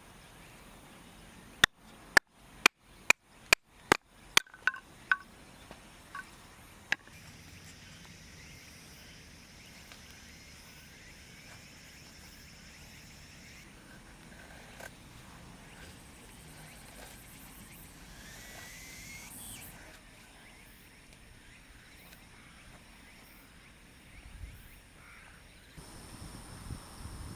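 A run of sharp knocks, about two a second for a couple of seconds, then three more spaced further apart, over a faint outdoor background.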